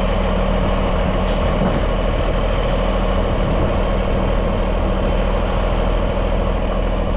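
Heavy diesel truck engine running at a steady idle, as it powers the trailer's hydraulics during loading.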